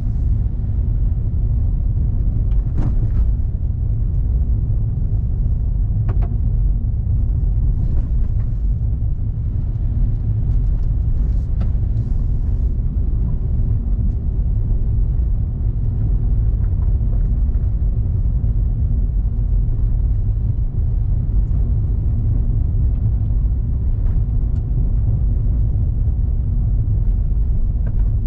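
Car driving along a road: a steady low rumble of engine and road noise, with a few faint ticks.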